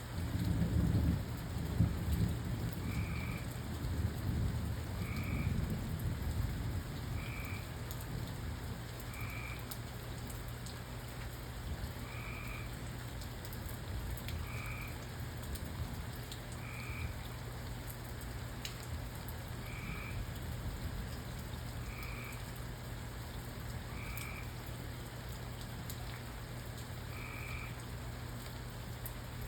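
Thunder rumbles over the first several seconds and then fades, over steady rain. Through it a frog gives a short call about once every two seconds.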